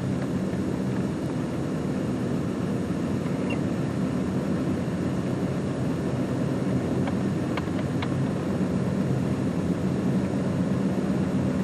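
Engine-driven compressor running steadily, a constant low hum.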